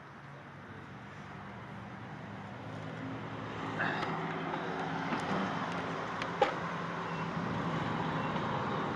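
A motor vehicle's engine running close by, its steady hum growing gradually louder over several seconds, with a few light clicks.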